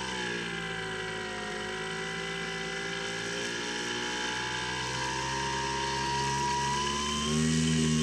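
Skywalker X7 flying wing's electric motor and propeller running with a steady whine, its pitch sinking over the first second or two, then slowly climbing, and growing louder about seven seconds in.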